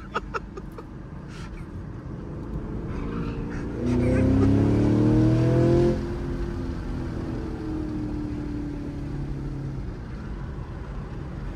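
Car engine over steady road noise, accelerating hard for about two seconds with its note rising, then dropping back abruptly to a lower steady drone.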